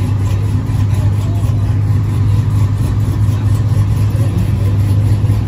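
A car engine idling steadily close by, an even deep rumble with no revs, over faint crowd chatter.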